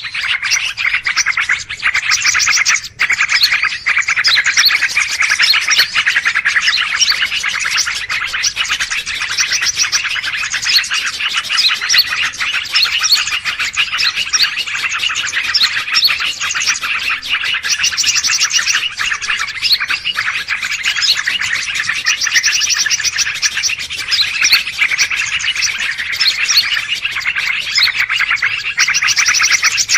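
Dense chorus of many small birds chirping and twittering at once, the 'noisy birds' lure recording played to draw wild birds in. It runs without pause except for a brief drop about three seconds in.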